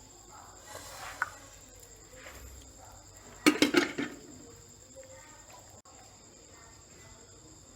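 Insects, crickets by the sound, trilling steadily and high-pitched in the background, with a short loud vocal burst about halfway through and a few faint clinks of dishes near the start.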